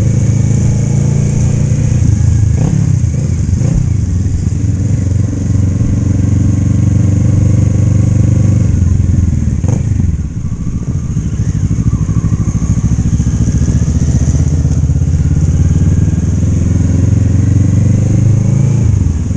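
Motorcycle engine running steadily while riding. About halfway through, the engine note drops briefly, then picks up and holds steady again.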